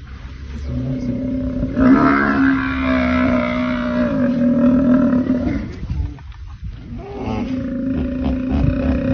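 Deep, roar-like animal bellowing in two long calls held at a steady pitch. The first begins about two seconds in and lasts some four seconds; the second begins about seven seconds in.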